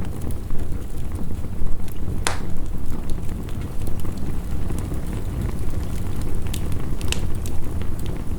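Wood fire crackling, with scattered sharp pops (the loudest about two seconds in), over the steady low rush of heavy rain.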